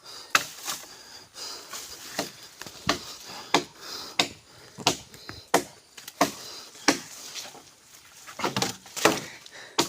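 Irregular sharp knocks and snaps of wood, about one or two a second, as tree branches are cut and handled.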